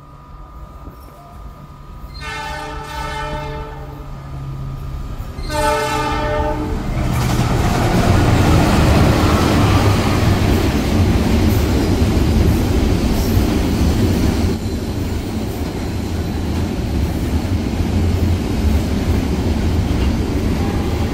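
KAI CC 206 diesel locomotive sounds its horn in two long blasts as it approaches. It then runs through with its container freight train, a loud steady rumble of the engine, wheels and rails that builds to full volume about 8 seconds in and carries on as the wagons go by.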